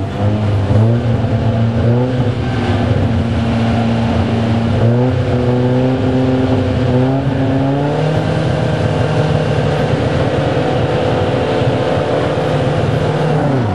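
Ginetta race car's engine revved while standing on the starting grid. It rises in pitch in several steps over the first eight seconds, then is held steady at high revs, as for a race start, and falls away sharply at the very end.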